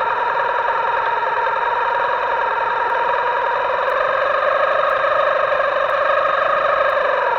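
Electric motor of an RC boat whining steadily with a buzzy, distorted tone; its pitch drifts slightly between about four and seven seconds in.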